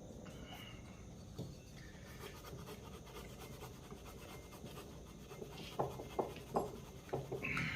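A Scotch-Brite pad scratching and rubbing faintly inside a Poulan 5200 chainsaw cylinder, scrubbing off aluminum transferred from the old piston. A few light knocks come near the end.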